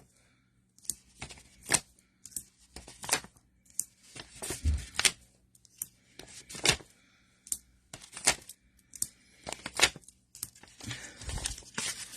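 Foam pop dots being peeled off their backing sheet and pressed onto paper: a series of short, irregular peeling crackles, paper rustles and light taps.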